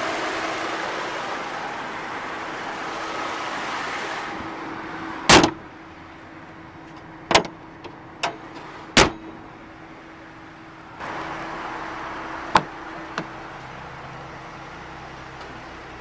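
Car engine idling with a steady hum. About five seconds in a car panel is slammed shut, followed by several lighter clunks and clicks.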